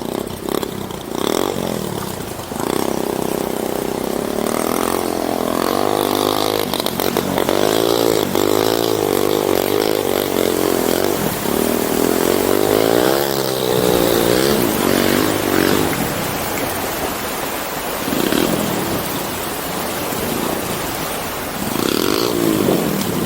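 A vehicle's engine working hard, its pitch rising and falling again and again as the throttle is opened and eased, over a steady rushing noise.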